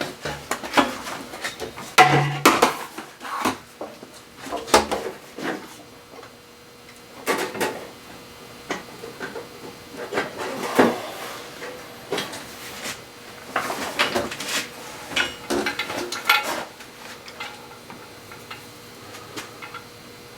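Metal tools and parts being handled, clinking and knocking in an irregular string of clicks and clanks that dies away in the last few seconds.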